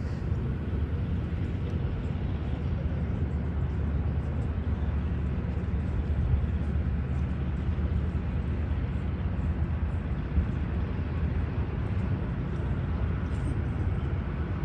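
Radial engine of a de Havilland Beaver floatplane, a Pratt & Whitney R-985 Wasp Junior, running steadily with a low rumble.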